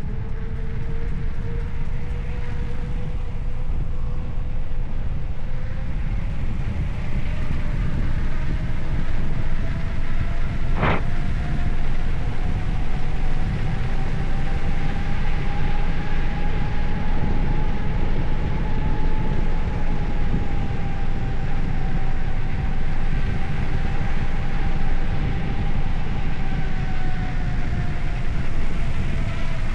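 Wind rushing over the microphone of a moving bicycle, with rolling noise and a faint whine that slowly rises in pitch and then falls. There is one sharp click about eleven seconds in.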